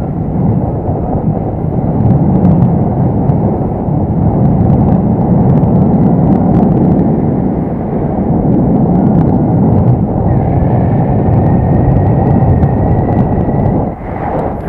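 Strong wind buffeting the microphone during a paraglider flight: a loud, gusting rumble that swells and eases. A faint steady whistle sits above it for a few seconds near the end.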